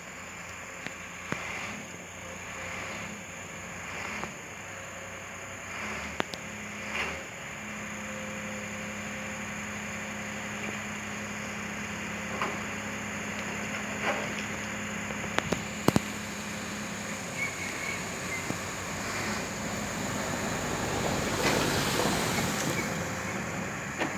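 Excavator's diesel engine running steadily, with a few sharp clanks and a louder, broader swell of noise about three-quarters of the way through.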